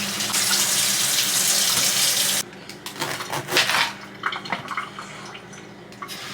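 Kitchen tap running into a sink, shut off sharply about two and a half seconds in, followed by a few light knocks and handling sounds; the water comes back on at the very end.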